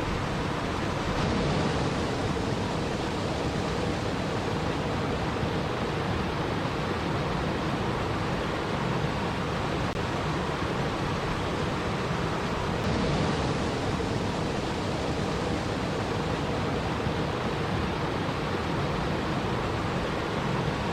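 Steady rushing water noise, even and unbroken, with a slight swell about every eleven or twelve seconds.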